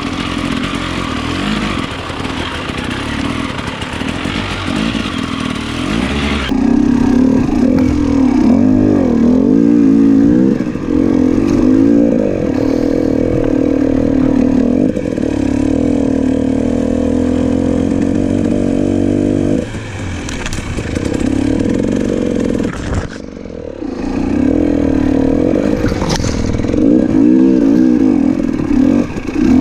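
300cc two-stroke enduro dirt bike engine under way on a rough, rutted trail, revving up and down in uneven surges as the throttle is worked over the bumps. A rushing noise dominates the first few seconds, and the engine drops away briefly twice a little after two-thirds of the way through.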